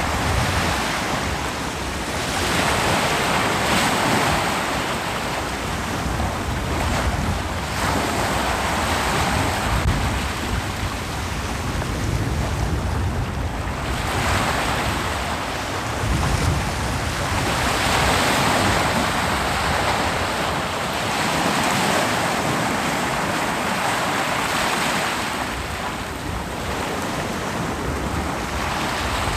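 Ocean waves breaking on a beach, the surf rising and falling in swells every few seconds, with some wind rumble on the microphone.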